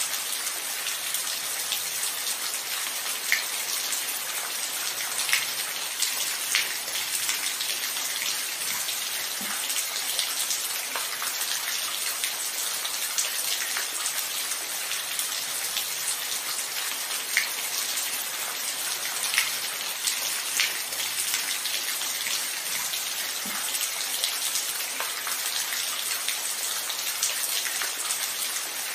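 Steady rain falling, an even hiss with a few louder single drops ticking out of it now and then.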